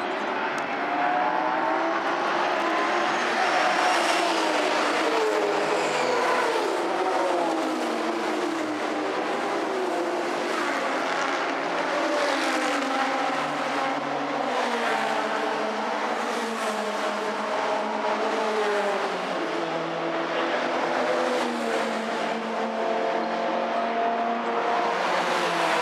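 Historic racing car engines running hard, several overlapping, their pitch climbing and dropping again and again as they change gear.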